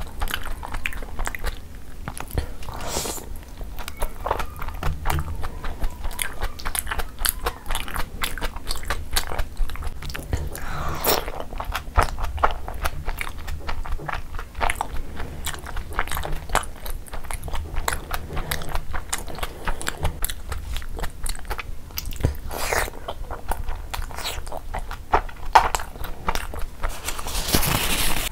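Close-miked chewing of soft chicken momos in thick gravy: continuous wet mouth clicks and smacks. A brief rustle of a tissue comes near the end.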